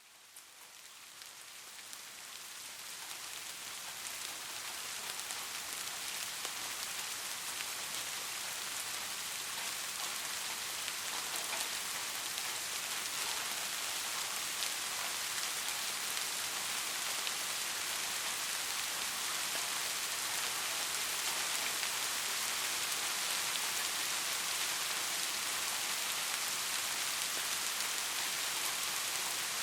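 Steady rain: a dense hiss of falling drops with fine individual drop ticks. It fades in from silence and builds over the first few seconds, then holds even.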